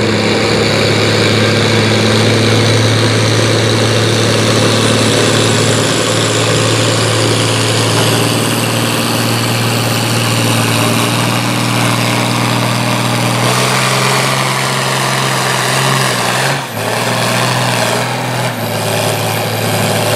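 A pulling vehicle's engine running hard and steady under load during a pull down the track, with a faint high whine rising in pitch over the first ten seconds or so. The engine note shifts about two-thirds of the way in and stops abruptly at the end.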